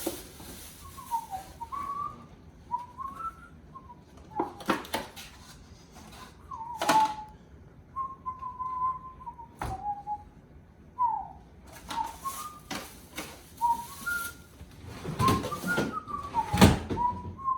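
A person whistling a wandering tune, mostly held notes with short slides up and down, broken now and then by sharp knocks and clatter, with a cluster of knocks near the end.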